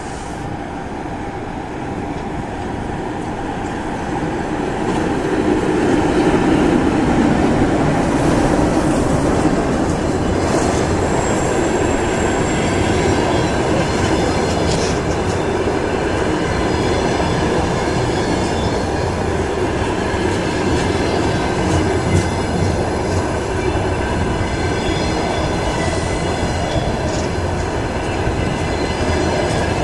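ChS2K electric locomotive and its passenger train arriving: a steady rolling rumble with high, thin squeals and creaks from the wheels and brakes. The rumble grows louder over the first six seconds, then holds.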